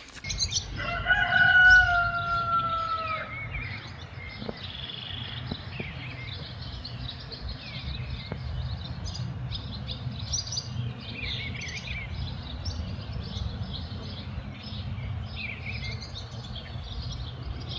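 A rooster crows once, one long drawn-out call that sags a little at the end. Small birds then chirp and twitter over a steady low rumble.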